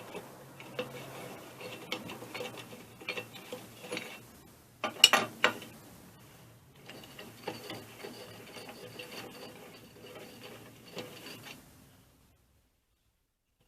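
Hand tools and metal parts working on an air compressor pump being taken apart: a run of light metallic clicks and scrapes as bolts are undone, with a cluster of sharp clanks about five seconds in. The sound cuts off abruptly near the end.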